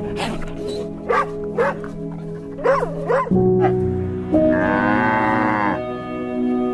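Farm animal calls over background music: several short calls in the first half, then one long call lasting over a second about four and a half seconds in.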